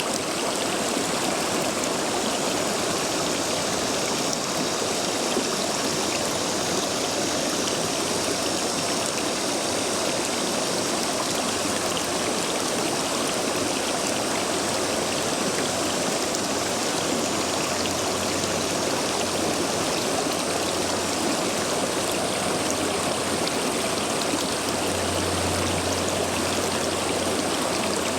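Stream water rushing steadily over and between stepping stones, running high after heavy rain.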